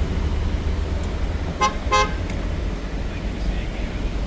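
Car horn tooted twice in quick succession, two short beeps about a second and a half in, over a steady low rumble of road traffic.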